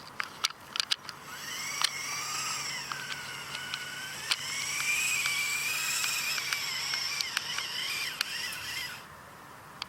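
Lego buggy motor whining as it drives a small Lego model truck, the pitch drifting up and down with the load, with scattered plastic clicks and knocks; it eases off near the end.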